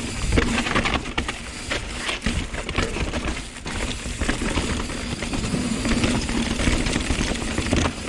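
Hardtail mountain bike ridden over rough trail: a busy run of knocks and clatter from tyres, chain and frame, over a steady rushing noise.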